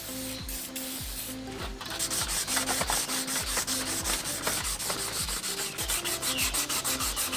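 1000-grit sandpaper rubbed by hand over a rusty motorcycle clutch plate wet with WD-40, in rapid back-and-forth strokes that get louder about two seconds in. Background music with a steady beat plays underneath.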